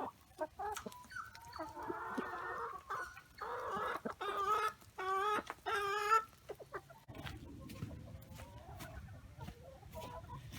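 Backyard hens clucking and squawking in a run of short calls that waver in pitch. From about seven seconds in, a low rumbling noise takes over.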